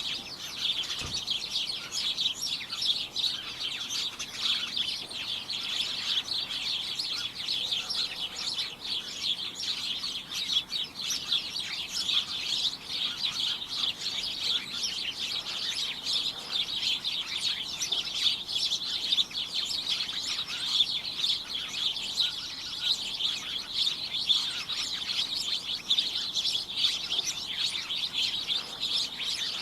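Many small birds chirping at once in a dense, continuous chorus of short, high chirps that overlap without pause.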